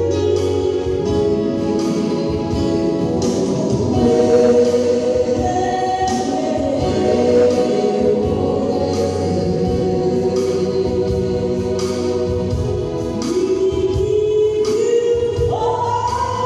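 Gospel song sung by a choir with instrumental accompaniment.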